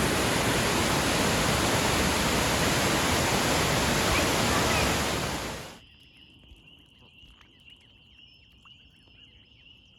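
Waterfall running as a loud, steady rush of water. It cuts off abruptly a little over halfway through, leaving a faint, steady high-pitched trill with a few light ticks.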